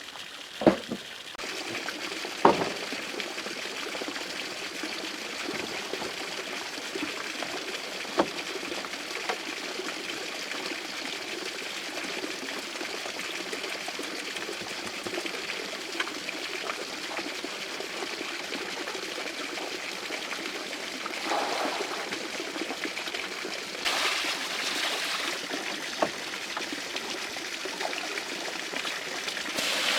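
Water trickling and pouring steadily, with a few sharp knocks and clicks, the two loudest early on, and brief louder swells of splashing water toward the end.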